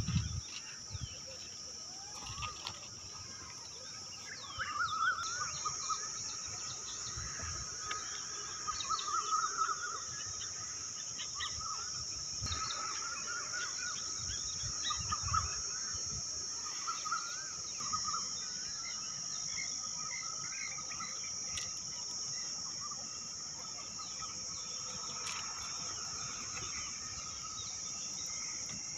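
Forest ambience: a steady high-pitched insect drone with many birds chirping and calling over it.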